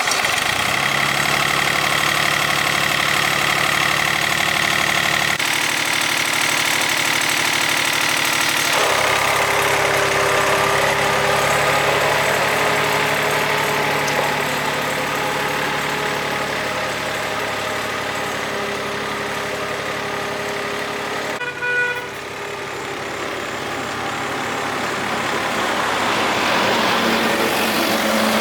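Engine of a repaired farm machine starting and running steadily and loudly, its note shifting a couple of times in the first ten seconds. A short horn-like toot sounds about two-thirds of the way through.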